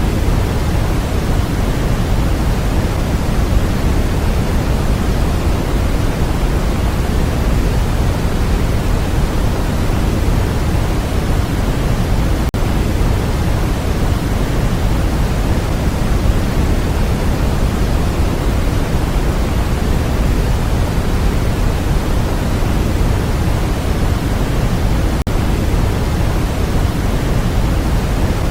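Steady electronic noise hiss, heavier in the low end than flat white noise, much like pink noise. It dips out for an instant twice, about halfway through and near the end.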